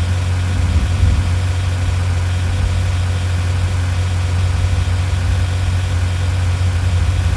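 A vehicle engine running steadily, a constant low rumble with no change in pitch.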